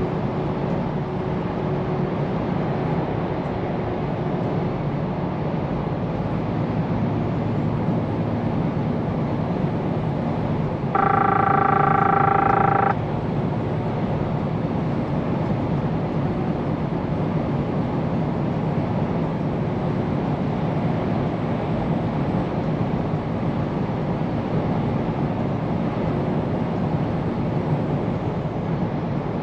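Steady engine and road rumble from a Scania P410 truck being driven. Partway through, a horn sounds once at a steady pitch for about two seconds and cuts off abruptly; it is the loudest thing heard.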